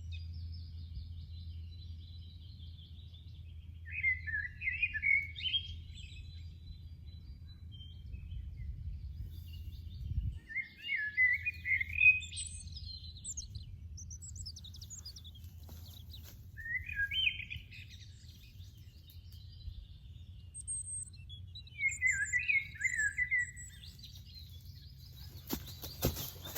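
Songbirds singing: one bird repeats a short warbling phrase four times, about every six seconds, with fainter high chirps between, over a steady low rumble. Rustling crackles come in near the end.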